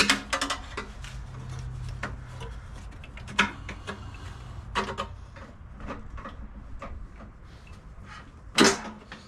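Scattered clicks, taps and knocks of parts and tools being handled while a snowblower is taken apart, with one louder knock near the end.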